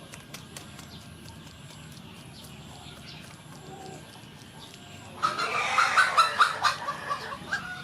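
A bird calls about five seconds in: a loud run of short, rapid notes lasting about two and a half seconds, over faint scattered clicks.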